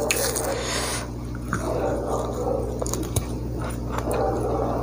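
A person chewing fried duck close to a clip-on microphone: wet, irregular mouth and chewing sounds with small clicks. A steady low electrical hum runs underneath.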